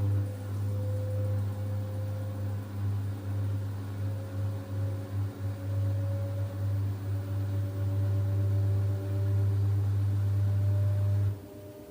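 LG F10B8MD front-loading washing machine in its spin cycle. A loud low hum switches on and cuts off suddenly near the end, under a motor whine that slowly rises in pitch as the drum speeds up. The owner says the bearings are not humming and the machine is not jumping, so this is a healthy machine.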